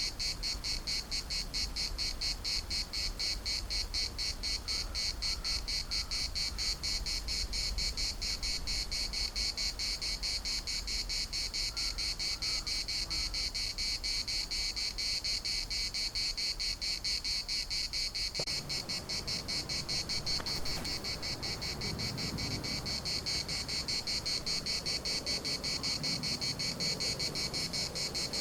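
Cicadas singing in chorus: a steady, rapidly pulsing high buzz. A few faint chirps come through twice in the first half.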